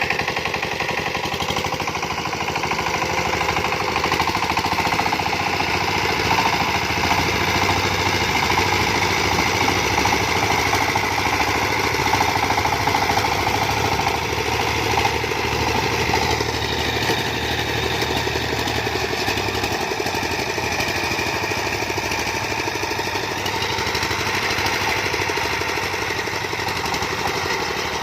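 Diesel farm engine running steadily with a rapid chugging beat, its note shifting a little past halfway and again near the end.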